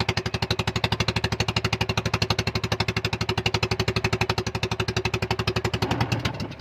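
Boat engine running with a rapid, even chugging of about a dozen pulses a second, cutting off suddenly near the end.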